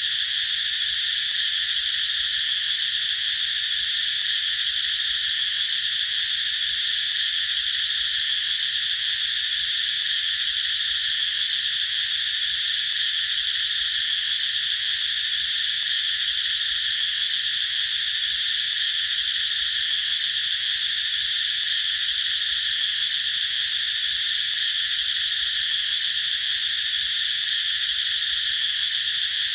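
A chorus of cicadas singing in one continuous, unbroken high-pitched drone, steady in loudness.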